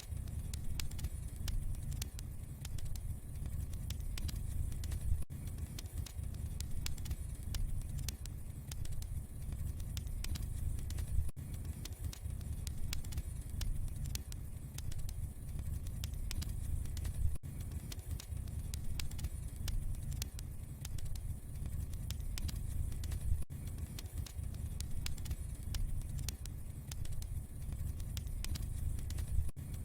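Wood fire in a fireplace crackling with frequent small pops and snaps over a steady low rumble of flames.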